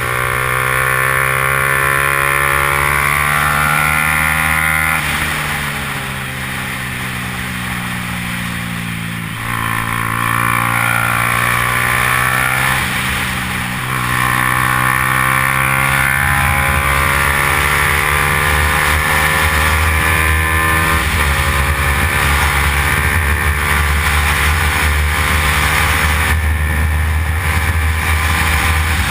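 Yamaha R15's single-cylinder engine running hard on a race track, its pitch climbing through the revs and falling away twice, about five seconds in and again near fourteen seconds, before rising and holding high. A steady low rumble lies under it.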